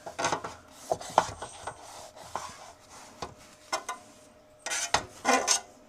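Irregular rubbing and scraping strokes with a few light knocks as a freeze-dryer shelf is scrubbed clean by hand, with two louder strokes near the end.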